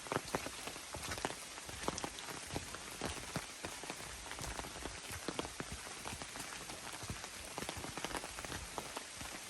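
Rain falling on a bamboo grove: a steady patter with many irregular drips and taps from drops hitting leaves.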